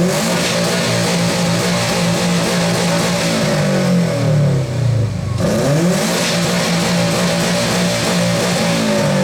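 A car's engine and exhaust revved hard and held at high revs. It drops briefly about halfway through and climbs straight back up. This is a loud exhaust-competition run, which reads 108.5 dB on the meter.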